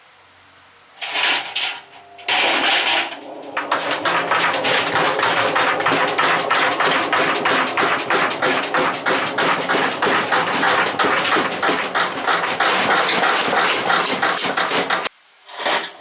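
A car alternator tumbling loose in a spinning washing-machine drum, banging metal on metal several times a second. It starts in two brief spurts, then bangs without a break and stops suddenly near the end.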